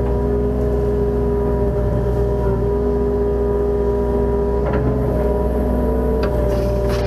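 Kubota KX018 mini excavator's diesel engine running steadily under work, with a deep rumble and held tones whose pitch shifts slightly every few seconds.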